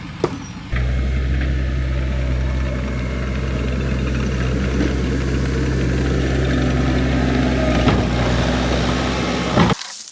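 A vehicle or machine engine running steadily at low revs with a deep, even hum. It comes in abruptly under a second in and cuts off suddenly near the end.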